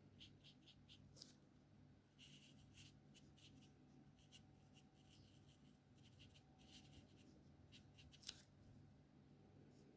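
Alcohol marker tip stroking over paper: faint, short scratchy strokes in quick succession while colouring, with a couple of sharper ticks.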